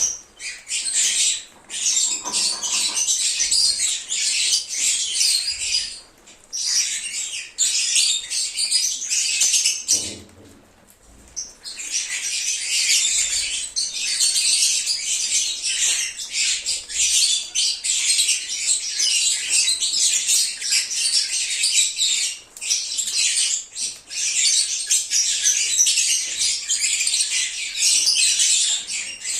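A group of lovebirds chattering and chirping in a dense, high-pitched, continuous stream. The chatter breaks off briefly twice and pauses for about a second and a half near the middle.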